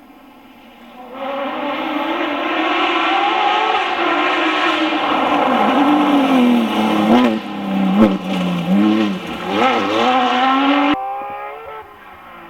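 Porsche 911 GT3 RS rally car's flat-six engine, faint at first, then coming up loud about a second in and pulling with slowly rising revs. Past the middle the revs swing quickly up and down several times, with throttle lifts and shifts, and the sound cuts off abruptly near the end.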